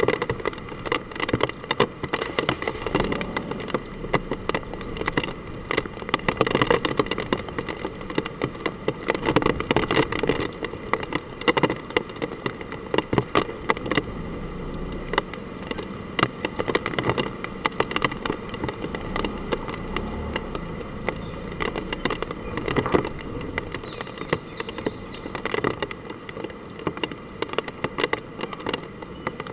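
Hard typhoon rain coming down, a dense, irregular patter of drops hitting close by without a break.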